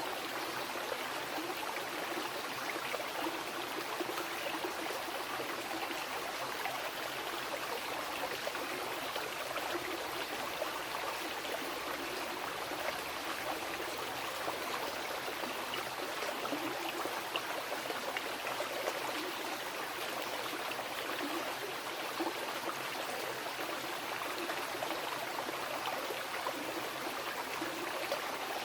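Mountain river rushing over rocks, a steady flow of water with the splash and spatter of small ripples.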